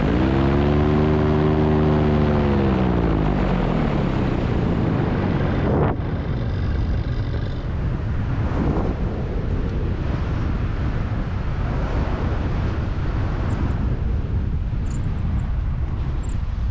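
Paramotor engine whose pitch rises briefly and then winds down and fades over the first few seconds. A steady rush of air noise follows, with a few faint high chirps near the end.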